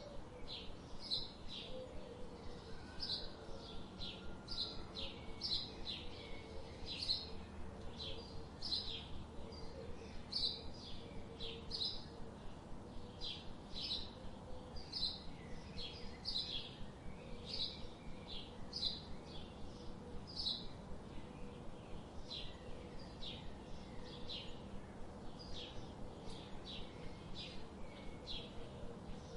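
A bird chirping over and over, short high chirps about twice a second, over a faint steady hum.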